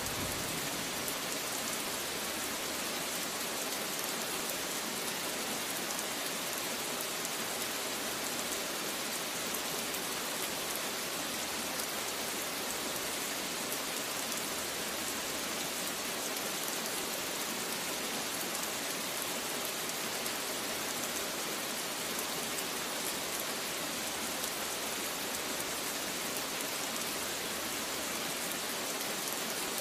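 Steady heavy rain falling, an even continuous hiss of drops on surfaces.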